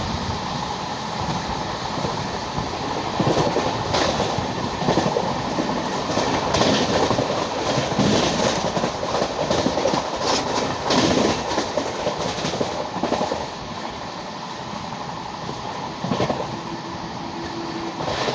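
LHB passenger coach running along the track: a steady rumble with irregular clicks and clatter from the wheels over rail joints. The noise drops and steadies about two-thirds of the way through.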